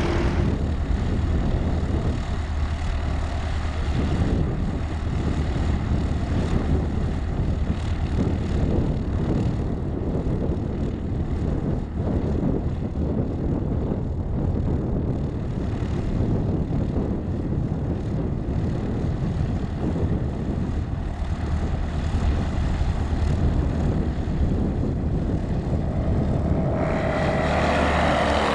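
Single-engine propeller airplane running at full power on its takeoff run from a short dirt strip, a steady heavy drone throughout. Near the end it passes close by, louder, and its pitch drops as it goes past.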